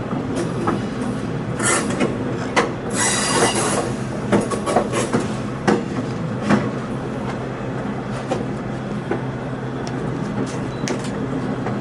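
Passenger train running along the rails: a steady low rumble with scattered clicks and knocks of the wheels over the track. Brief high wheel squeals come through, the loudest about three seconds in.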